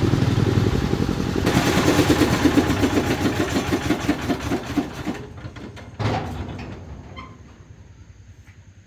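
A motor running with a quick pulsing beat, then dying away from about five seconds in. A single knock comes about six seconds in.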